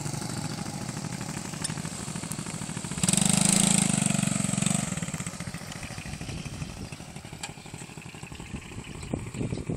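Motorbike engines running; the sound jumps louder about three seconds in for a couple of seconds, then fades away.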